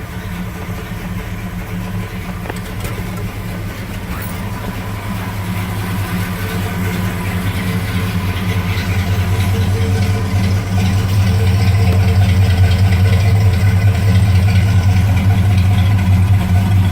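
1970 Ford F-250 engine idling steadily on Pertronix electronic ignition, freshly cold-started after sitting four or five days, growing gradually louder.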